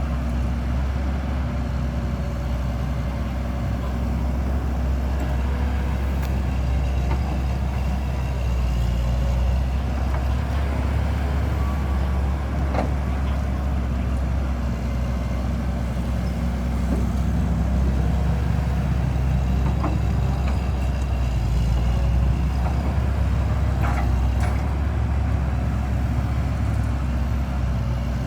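A large engine running steadily with a deep, unchanging drone, with a few faint clicks and knocks over it.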